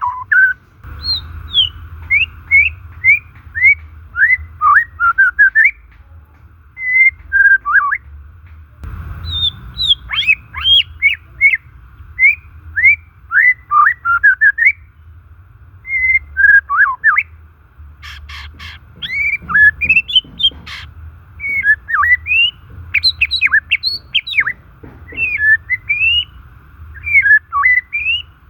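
White-rumped shama singing: phrases of quick, loud whistled notes sweeping up and down, broken by short pauses, with a few harsher rasping notes about two-thirds of the way through, over a faint steady background hiss.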